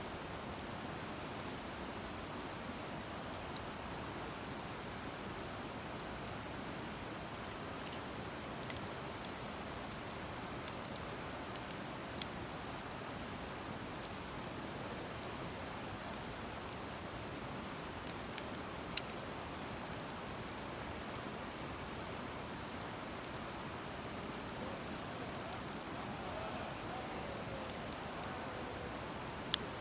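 Wood campfire crackling, with scattered sharp pops from the burning wood at irregular intervals over a steady hiss; one louder pop near the end.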